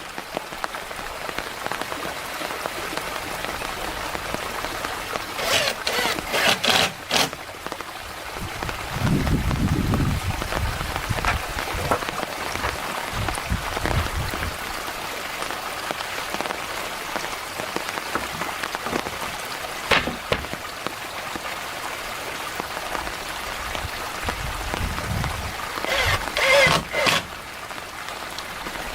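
Steady rain falling throughout, with a few quick clusters of sharp knocks about six seconds in and again near the end, and brief low rumbles in between.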